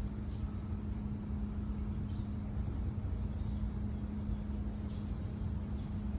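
Steady low background rumble with a constant low hum, and no distinct events.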